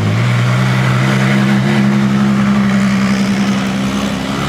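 A car engine running at a steady, slightly raised speed, its pitch stepping up a little just after the start and then holding.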